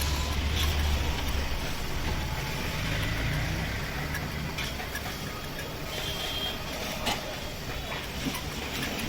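A low engine rumble, strongest for the first second or so and then easing off, with a few faint clicks.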